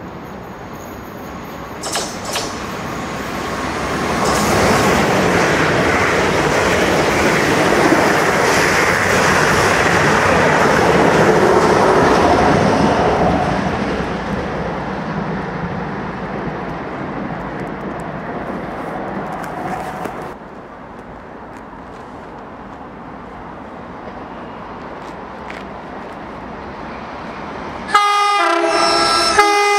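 A train passes at speed along the platform line, its rushing wheel and rail noise swelling and then fading away. Near the end an approaching South Western Railway Desiro electric multiple unit sounds its horn twice.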